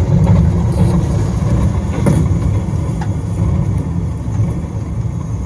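A vehicle running with a loud, steady low rumble.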